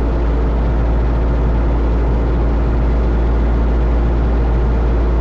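Steady cabin drone of a 1972 Cessna 172 Skyhawk in flight on final approach: the four-cylinder engine and propeller running evenly, with airflow noise. It is deep and even, with no change in pitch or level.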